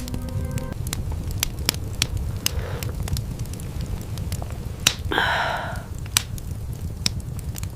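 Wood fire crackling, with irregular sharp pops over a steady low rumble; a short hiss about five seconds in.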